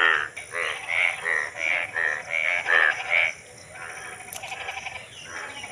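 Frogs croaking in quick repeated calls, about two to three a second. The calls die down a little past halfway, leaving faint fast ticking.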